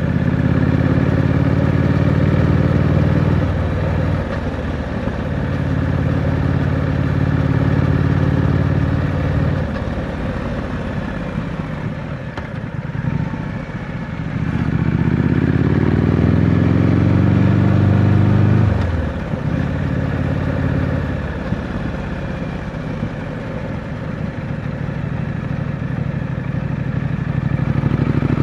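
2025 Triumph Scrambler 900's parallel-twin engine through its stock exhaust, ridden on the road. It holds steady throttle, then eases off. About halfway through it revs up in a long rising pull that cuts off sharply, and it picks up again near the end.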